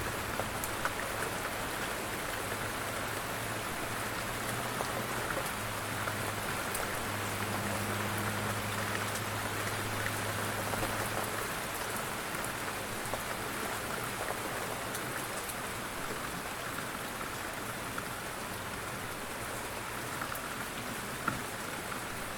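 Steady rain falling on a surface, an even hiss dotted with scattered drop ticks. A low steady hum sits underneath for the first half and fades out about halfway.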